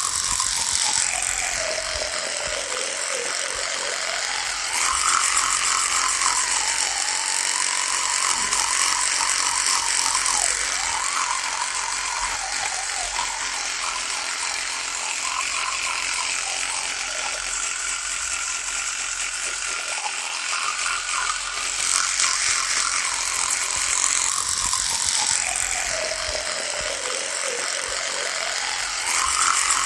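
Electric toothbrush running: a continuous high buzz whose pitch wavers up and down, getting louder for stretches a few times.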